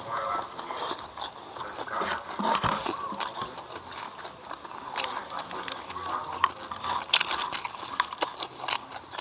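Close-up mouth sounds of a person eating by hand: chewing with wet smacks and many short, sharp clicks.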